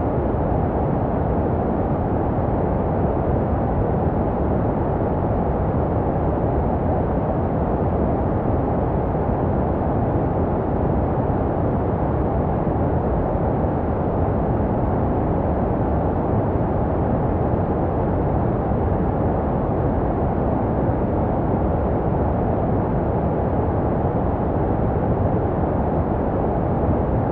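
Continuous baby-sleep white noise: an unchanging, muffled rushing hiss with its energy in the low and middle range and little treble, made to resemble the sound a baby hears in the womb.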